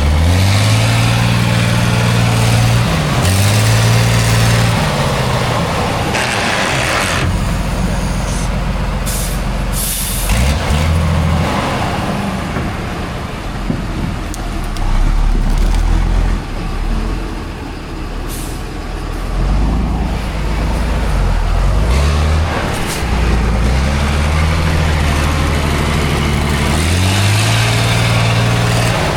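Heavy off-road trial truck's engine revving up and dropping back several times, with a few short bursts of hiss.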